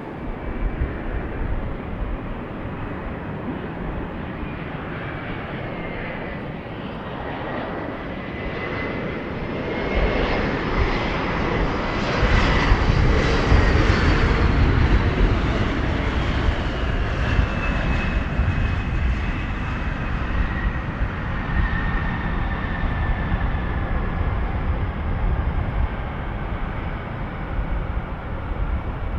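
A regional airliner's engines passing by, growing louder to a peak about halfway through and then fading, with a whine that drops in pitch as the aircraft goes past.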